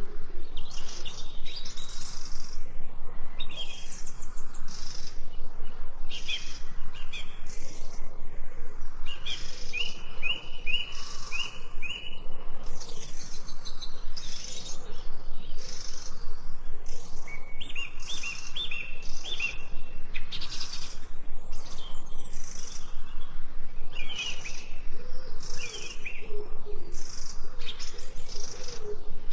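A dense chorus of small songbirds chirping and singing over one another, with quick repeated trilled phrases. Low cooing calls, typical of a dove, come in at the start and again near the end.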